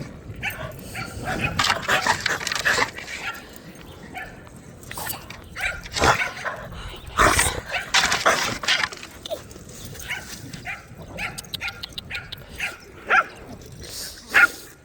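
Dogs barking and yipping excitedly at play in irregular bursts, with some short whines.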